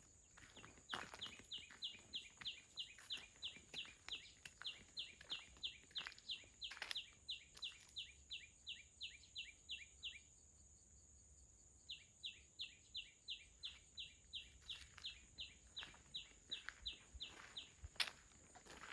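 A bird repeating a short, falling high call about three times a second in a long, even series, breaking off for about two seconds midway and then resuming. Under it is a steady high insect buzz and the soft crunch of footsteps, with one sharp click near the end.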